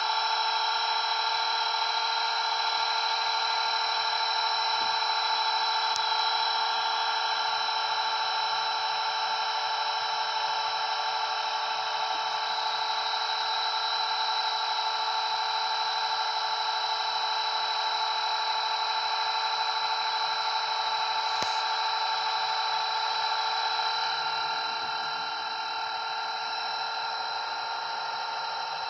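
Blade 230S V2 electric RC helicopter in flight: the steady high-pitched whine of its brushless motor and spinning rotor, getting a little quieter near the end.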